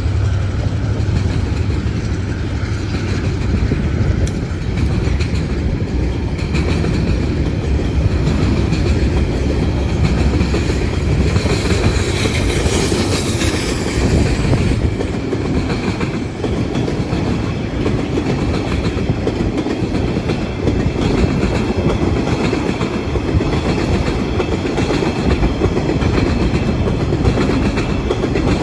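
Empty container and log wagons of a freight train rolling past at steady speed, with wheels clicking over the rail joints and a continuous rumble.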